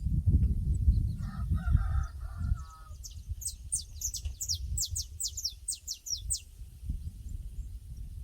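Pasture ambience: a rooster crows once, about a second in, over a low rumble. From about three seconds in, a songbird gives a quick run of descending high notes.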